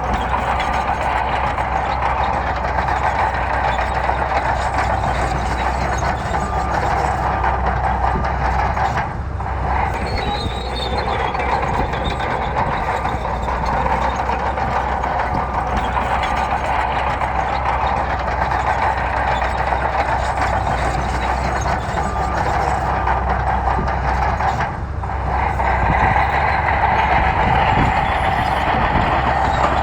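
Bulldozer at work pushing gravel, its diesel engine and crawler tracks running steadily and loudly, with two brief lulls about nine and twenty-five seconds in.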